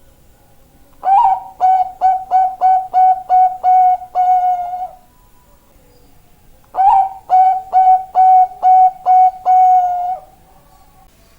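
Zebra dove (Bangkok-type perkutut) cooing: two song phrases, each a quick run of about eight to ten short, clear notes on one pitch, ending in a longer held note.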